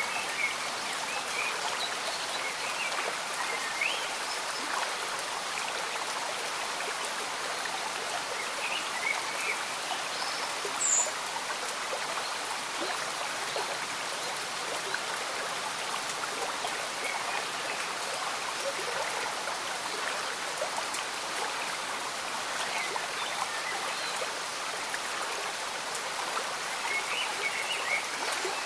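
A gentle stream bubbling and trickling steadily, mixed with light rain falling. Brief high bird chirps come now and then, a few of them near the end.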